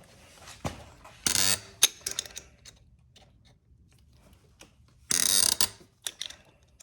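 Wrench ratcheting as it turns the press screw of a chain breaker tool, forcing a rivet out of a motorcycle drive chain: two short bursts of rapid clicking about four seconds apart, with scattered single clicks and knocks between.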